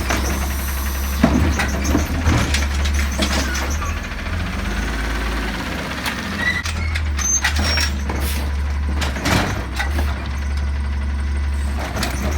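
Recycling truck engine running steadily, with scattered sharp knocks and clanks over it.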